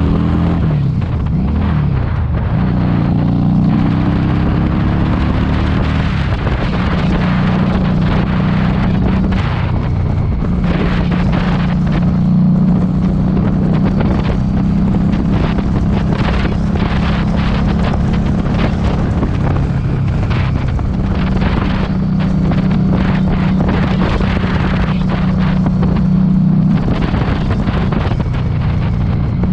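Harley-Davidson Street 500's liquid-cooled V-twin exhaust note while riding. The engine pitch falls and rises with throttle changes in the first few seconds, then holds steady at cruise with brief dips, under heavy wind buffeting on the microphone.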